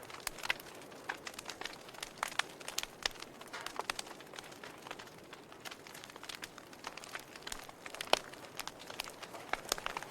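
Wood fire crackling in a fireplace: irregular pops and snaps over a soft hiss, with one sharper pop about eight seconds in.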